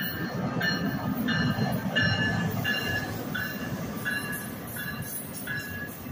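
Electric passenger trains running through a station: the rumble of an NJ Transit ALP-46A-hauled train pulling in as an Amtrak train passes, loudest about two seconds in. Over it, a high ringing tone repeats about every two-thirds of a second.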